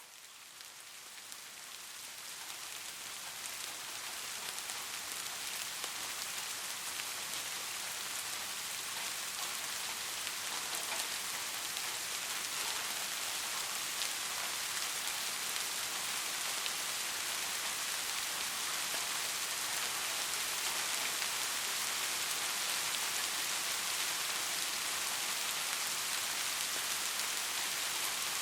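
Steady rain falling, an even hiss that fades in over the first few seconds and then holds level.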